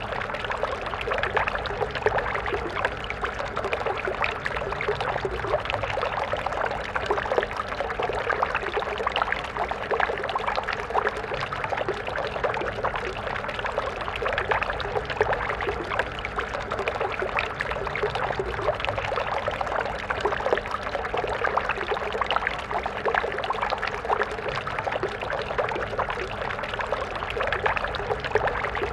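Stream water flowing and splashing steadily, a dense continuous babble.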